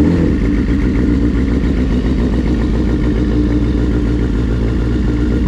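Suzuki GSX-R 1000's inline-four engine just after a cold start, running at a steady idle.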